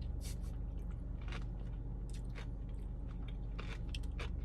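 Close-up chewing and biting on fast food: irregular crisp crunches and wet mouth smacks, several a second, over a steady low hum.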